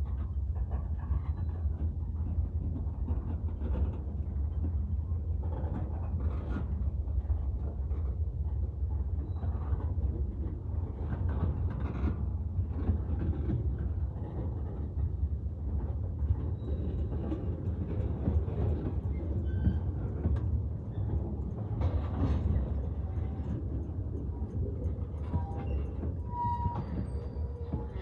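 Freight train cars, covered hoppers and tank cars, rolling past on the rails: a steady low rumble of wheels on track with irregular clanks.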